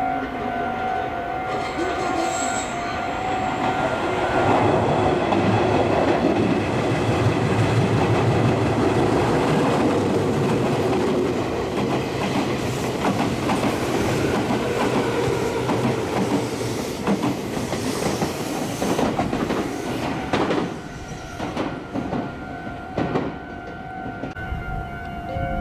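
A Meitetsu electric train runs through the station at speed without stopping. Its running noise on the rails builds from about four seconds in and is loudest for the next dozen seconds. It then fades into separate wheel clacks over the rail joints as the train moves away. A steady electronic warning tone sounds at the start and again near the end.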